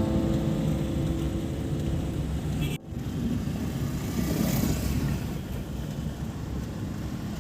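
Steady rumble and hiss like a vehicle's road noise, broken by a brief dropout about three seconds in.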